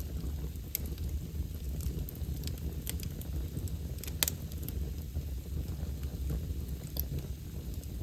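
Wood fire burning in a fireplace, crackling with scattered sharp pops, the loudest about four seconds in, over a steady low rumble.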